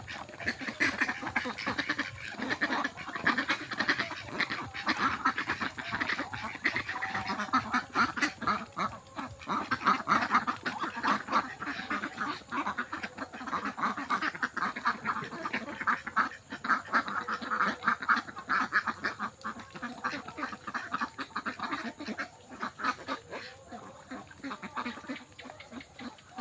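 A flock of domestic ducks quacking continuously while being fed, many short calls overlapping in a dense chatter.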